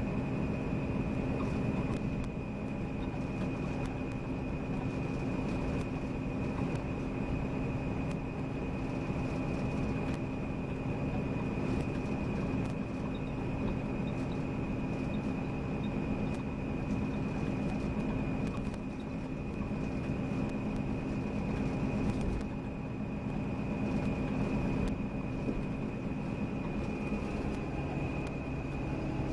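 Volvo B9R coach on the move: steady engine drone and road noise, with a constant thin high whine running above it.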